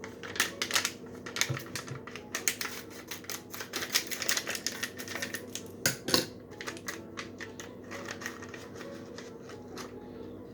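Ice cream sandwich wrapper being handled and opened, a dense irregular run of crinkling crackles.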